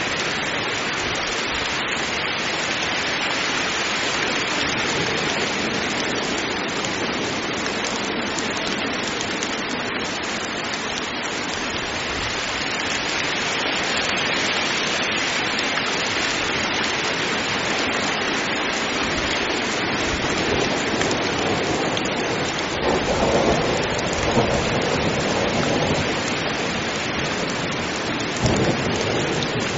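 Heavy rain falling steadily, with rumbles of thunder swelling about three quarters of the way through and once more briefly near the end.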